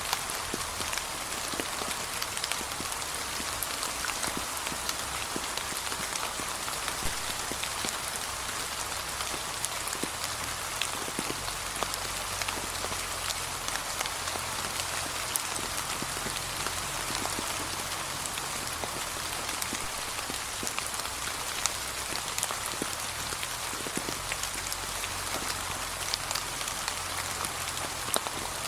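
Steady gentle rain with many small drops pattering and ticking on a surface.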